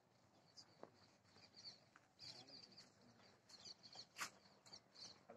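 Faint, scattered high-pitched bird chirps, with a few soft clicks and one sharper click about four seconds in.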